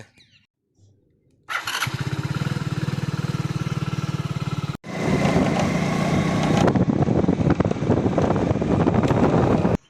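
Motorcycle engine running with an even, fast pulsing beat, coming in about a second and a half in. Halfway through it cuts off sharply and returns louder and rougher, then stops abruptly near the end.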